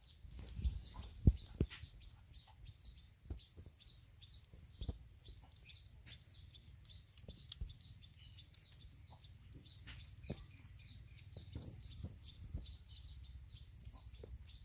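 A bird chirping over and over, a few short high chirps a second, with scattered soft knocks and one sharper knock about a second in.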